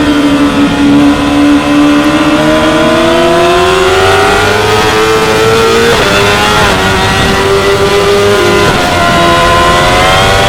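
2016 Yamaha R6's inline-four engine at racing revs: it drops off briefly, then pulls hard up through the gears with two quick upshifts, about six and nine seconds in, the revs climbing again after each one.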